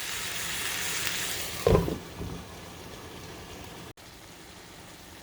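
Chicken frying in a pan with a steady sizzle. About a second and a half in, a lid goes on with a short knock, and the sizzle drops to a quieter, muffled hiss under the cover.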